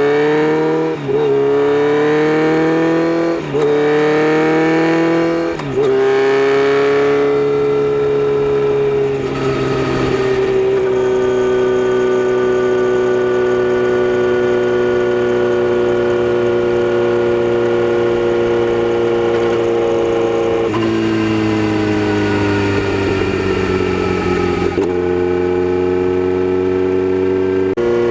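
Kawasaki Z900RS inline-four running through a Holeshot Lextek aftermarket header, loud. It accelerates hard through three quick upshifts, then settles into a steady cruise. The engine note changes again about two-thirds of the way through and once more near the end.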